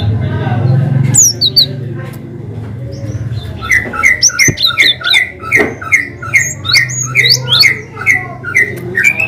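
Cinereous tit (gelatik batu) singing: a few sharp high notes, then from about four seconds in a fast, even run of repeated two-note phrases, about two a second, in the bird's long 'wicit' song.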